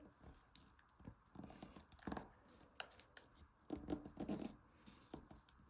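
Origami paper being folded and creased by hand: faint, scattered rustles and scratches of paper.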